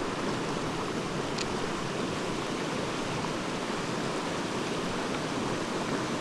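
Mountain stream running steadily, an even wash of water noise.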